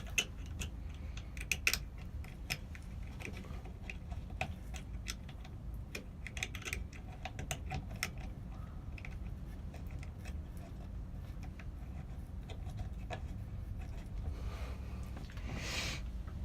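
Irregular light clicks and taps of metal hardware being handled as a fan is fitted to its ceiling bracket, over a low steady hum.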